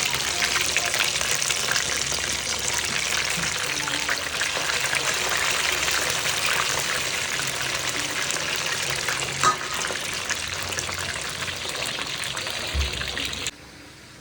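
Food frying in hot oil in a pan, with a steady dense crackle and sizzle, a single sharp knock about nine and a half seconds in, and the sizzle cutting off abruptly near the end.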